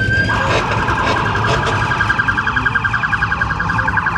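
Police car siren: a held wail that, shortly after the start, switches into a fast pulsing warble.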